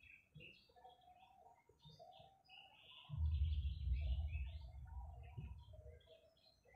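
Small birds chirping in the background, many short high chirps. From about three seconds in to about six seconds a loud low rumble on the microphone covers them.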